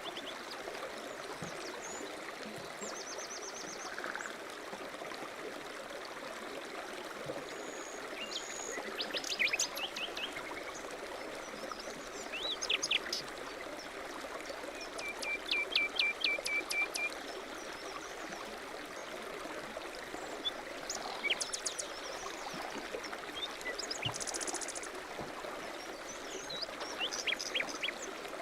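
A stream running steadily, with small birds chirping in short bursts every few seconds, including a quick even trill of about eight notes near the middle.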